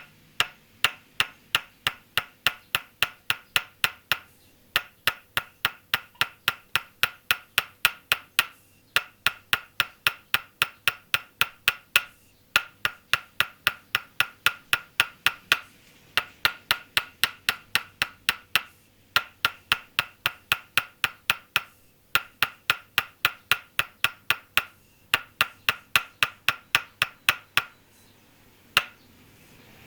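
Tok sen massage: a wooden mallet tapping a wooden stake held against the body, in quick even knocks of about three a second. The knocks have a hollow, ringing wooden tone, and the run pauses briefly every few seconds.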